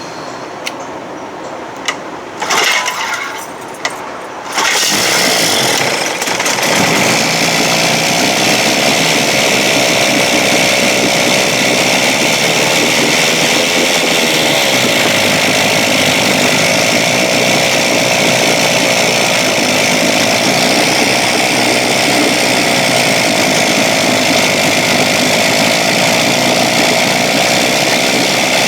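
1956 Evinrude 7.5 hp two-stroke outboard motor being pull-started: a few short bursts, then it catches about five seconds in and keeps running steadily, its pitch wavering slightly.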